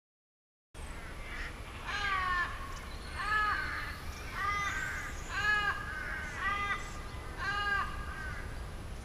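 A bird calling repeatedly: about six drawn, arched calls, roughly one a second, over a steady low rumble.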